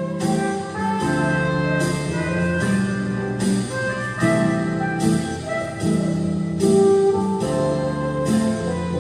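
Weril 13-key clarinet playing a hymn melody in held notes, changing pitch about once a second, over sustained low accompaniment chords.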